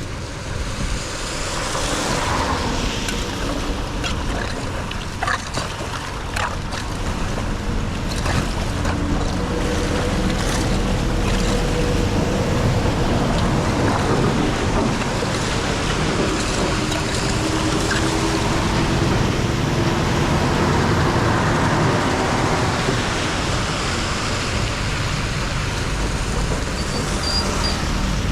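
Floodwater rushing and gurgling into a cleared street drain: a steady wash that grows a little louder after the first ten seconds, with a few knocks a few seconds in.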